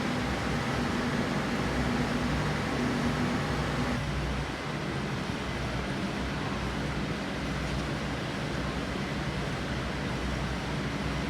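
Steady background noise with a low droning hum, which drops away about four seconds in, leaving an even rushing noise.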